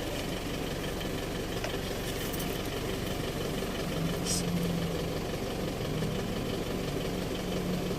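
Isuzu MU-X's diesel engine idling steadily, with a brief click about four seconds in.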